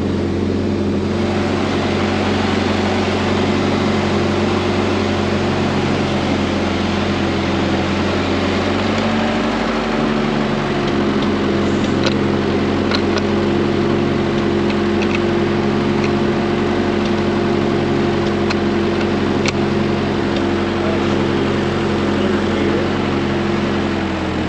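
Ford 8N tractor's four-cylinder gasoline engine running steadily while the tractor is driven. Its note shifts lower about ten seconds in, and a few sharp ticks come through in the middle.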